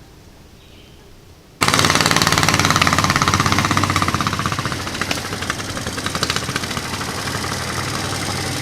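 Small single-cylinder 420cc engine of a mini bike trike running with a rapid, loud pulsing exhaust beat, cutting in abruptly about a second and a half in. It runs fast at first, then eases down toward idle after about four seconds.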